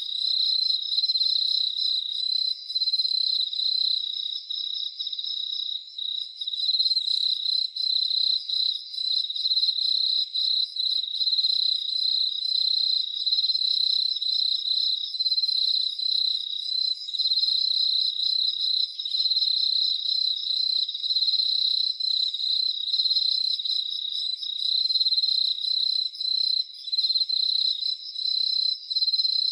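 Crickets trilling in a dense, high-pitched chorus of rapid pulses, holding steady with brief momentary dips.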